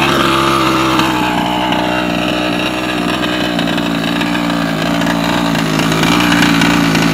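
Redcat 1/5-scale truck's 32cc two-stroke gas engine running at fairly steady revs, its pitch sagging slowly.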